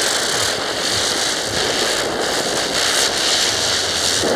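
Ground spinner firework (chakri) whirling on the ground and burning with a loud, steady hiss.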